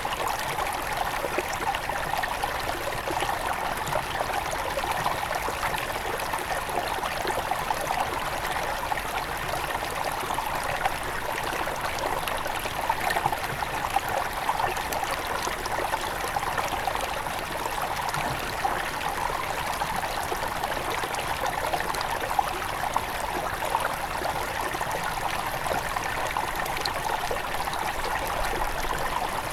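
Small forest river at its headwaters, water running and trickling over stones in a steady, even babble.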